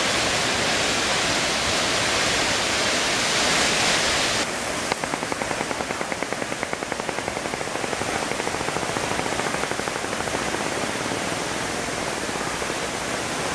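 Rushing water of a waterfall, a steady loud roar. About four and a half seconds in the sound changes suddenly and grows duller, with a brief fluttering after it.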